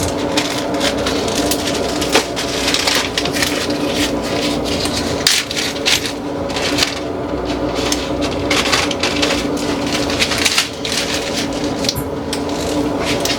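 Plastic cookie packaging and bags crinkling and rustling in irregular bursts as cookies are packed into bags, over a steady low hum.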